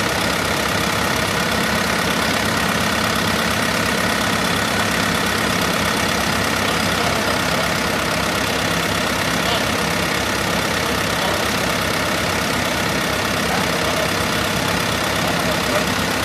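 MAN diesel engine, freshly swapped into a GAZ-3309 truck, idling steadily on its first run.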